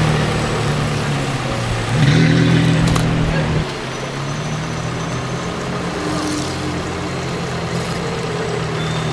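Gemballa Mirage GT's 5.7-litre V10 idling steadily. About two seconds in it runs louder for about a second and a half, then drops back to an even idle.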